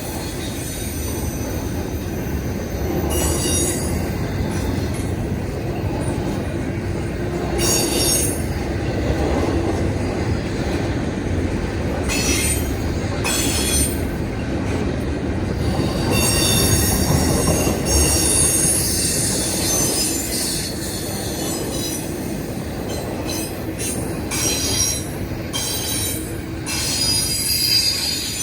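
Freight train cars rolling past with a steady low rumble of steel wheels on rail, and high-pitched wheel squeal that comes and goes several times.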